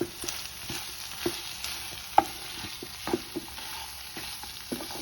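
Pepper chicken frying in oil, stirred with a spatula: a steady sizzle with the spatula knocking and scraping against the pan about once a second.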